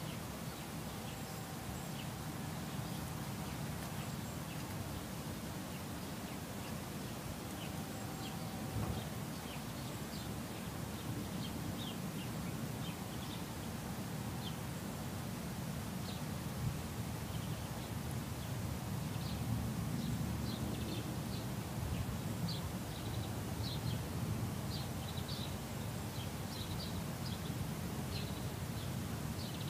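Garden ambience: small birds chirping in short high notes, more often in the second half, over a steady low background rumble.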